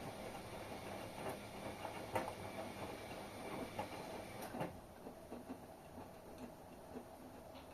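Washing machine running a wash: the drum turns with irregular knocks and clicks over a steady wash noise. The noise drops a little over halfway through.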